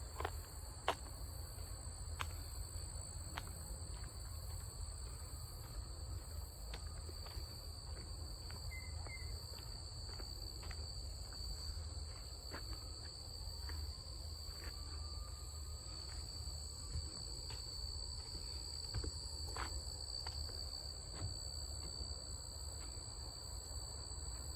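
Insects, crickets, chirring steadily at a high pitch, over a low rumble of distant road noise, with scattered sharp clicks and taps.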